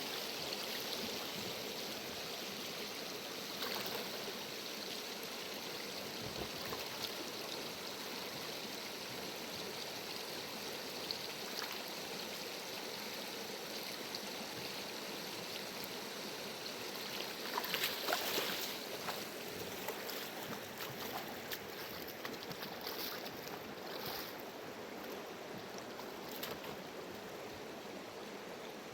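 Mountain river running fast, a steady rush of water, with a brief louder patch of sharper splashing or knocking sounds about two-thirds of the way through.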